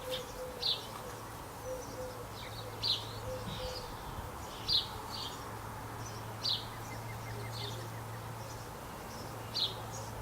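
Garden birds calling: short high chirps repeat every second or two, with a faint low cooing in the first few seconds, over a steady low hum.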